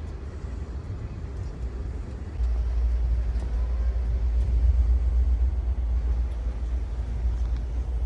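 Low, steady rumble of a moving Amtrak Auto Train heard by a passenger on board. It gets louder about two and a half seconds in.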